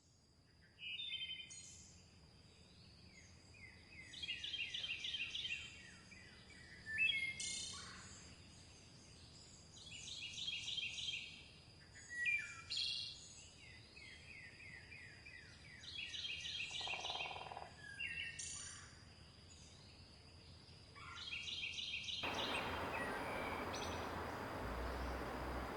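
Forest songbirds singing, in short phrases of quickly repeated notes with pauses between them, over a thin steady high tone. About 22 seconds in, the steady rush of a river's running water comes in and covers the birds.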